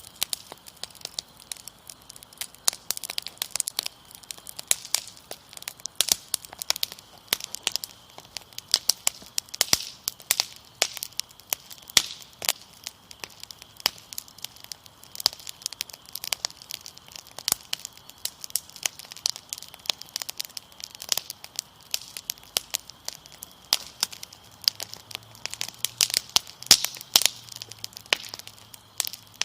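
Wood fire crackling, with dense, irregular pops and snaps. Under it runs a faint, steady high trill of crickets.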